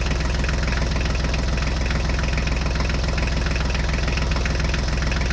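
Tractor engine running steadily at idle, an even fast chugging over a low hum.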